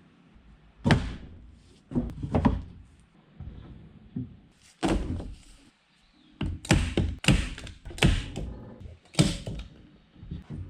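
A series of irregular knocks and thuds from hard objects being set down or struck, about a dozen of them, some in quick pairs, with a busy run of knocks past the middle.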